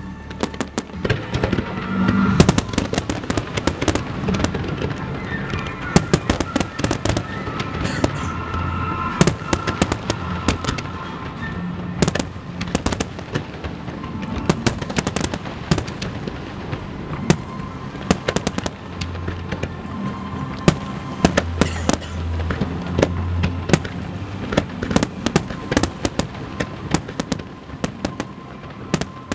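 Fireworks display in full flow: aerial shells bursting in rapid, overlapping bangs, several a second, over continuous crackling.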